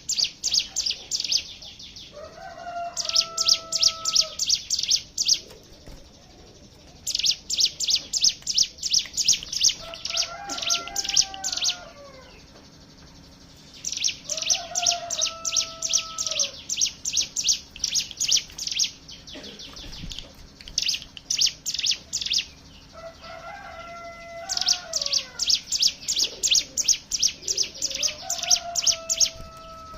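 Several ciblek gunung (hill prinias) singing the fast, rattling 'ngebren' song: high, rapidly repeated notes in bursts of one to five seconds with short pauses between. Between bursts come short lower whistled notes that hold and then slide down.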